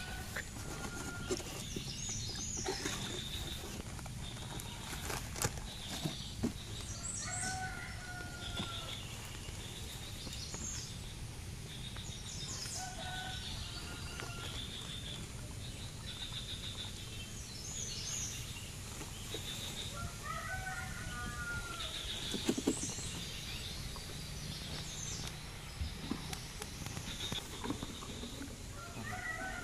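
Birds calling outdoors: short high chirps repeat throughout, and a longer, lower call that bends in pitch comes every five to eight seconds, with a few scattered clicks.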